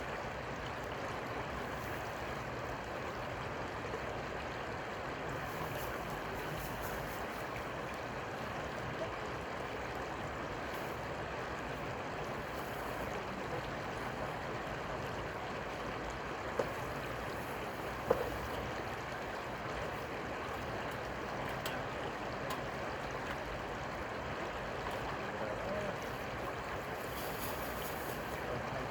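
Steady rush of river water, with two brief sharp clicks about sixteen and eighteen seconds in.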